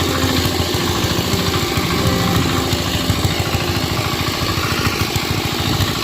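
Small tractor engine running steadily, a fast, even beat of firing pulses.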